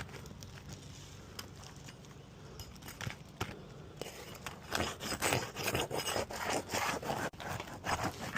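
A flat bar scraping and prying under asphalt roof shingles, breaking their adhesive seal. It starts with a few scattered clicks, then about halfway through turns into a busy run of rough scraping strokes.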